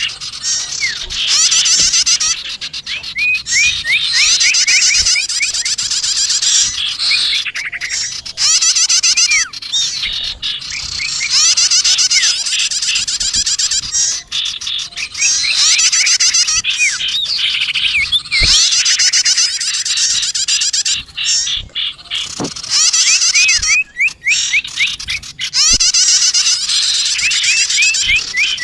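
Bird-lure recording of small songbirds, sirtu and prenjak tamu (prinia) calls mixed together: rapid high-pitched chattering trills and chirps in repeated bursts of a few seconds each, with short breaks between.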